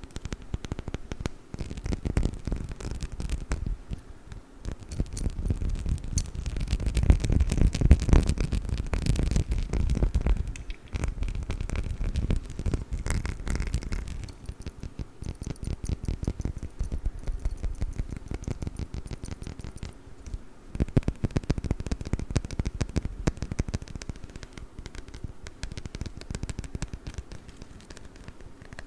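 Rapid, dense tapping and scratching on a perfume bottle, many small clicks a second, loudest for a few seconds in the first half.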